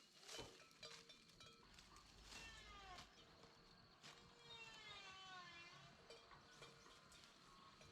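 Two faint, drawn-out animal calls, the second longer with a pitch that bends and falls, with a few sharp knocks around them.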